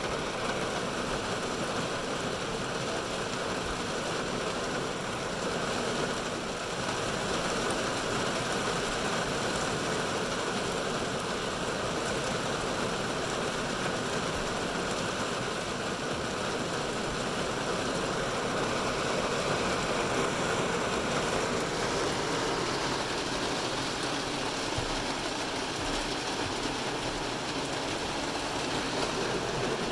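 Heavy rain falling steadily on a car's roof and windows, heard from inside the cabin as an even hiss.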